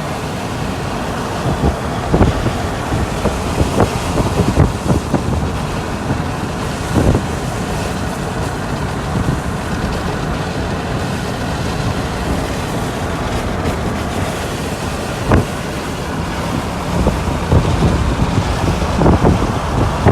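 Gusty storm wind buffeting a moving car and the phone microphone inside it, a steady low rumbling noise with road noise beneath. A few sharp knocks stand out, about 2, 4, 7 and 15 seconds in.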